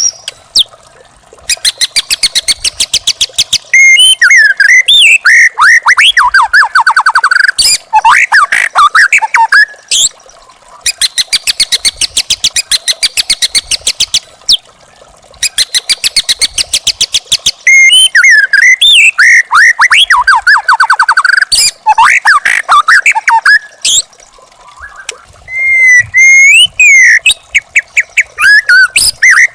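White-rumped shama (murai batu), a young wild bird, singing: bouts of fast rattling chatter made of rapid clicks alternate with whistled notes and quick sliding phrases, with short pauses between bouts.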